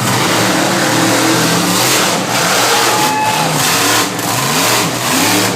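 Monster truck engine revving hard, its pitch climbing and falling again several times in quick succession over a loud roar.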